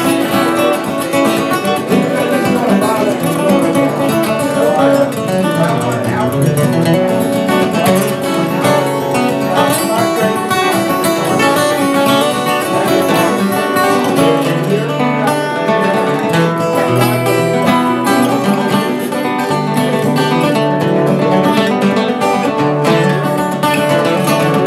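Instrumental break in a live acoustic country-folk song: plucked acoustic guitar playing with no singing.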